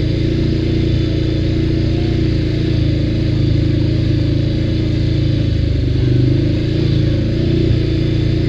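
ATV engine running steadily at an even pace.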